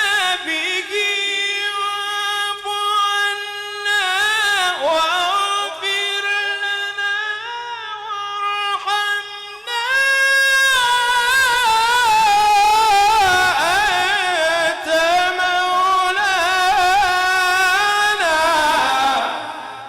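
One voice reciting the Quran in drawn-out melodic tajweed, holding long wavering notes with ornamented turns. About halfway through it rises to a higher, louder sustained line, then fades away at the close of the verse.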